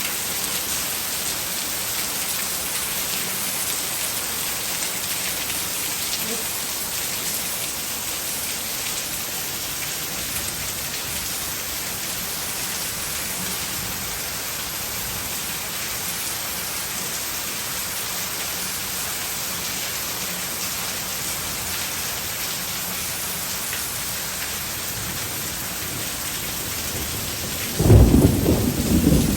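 Heavy rain falling steadily, an even hiss. About two seconds before the end a sudden loud, low rumble of thunder breaks in.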